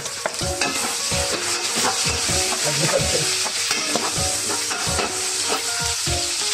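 Onions and minced garlic sizzling in hot oil in an aluminium wok, with a metal ladle scraping and stirring through them. The sizzle is steady.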